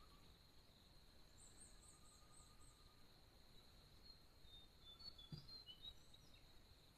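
Faint forest ambience: a steady high insect drone, with a short trilled bird phrase in the first half and a few brief chirps later on.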